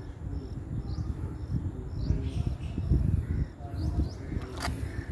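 Birds chirping, with short high chirps repeating about twice a second and a few quick falling chirps, over low rumbling background noise; a sharp click comes near the end.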